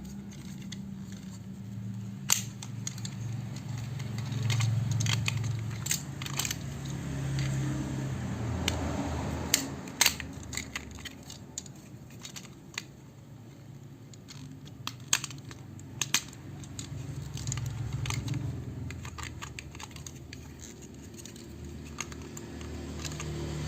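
Hard plastic toy parts clicking and rattling as they are handled, with scattered sharp clicks and a few louder snaps.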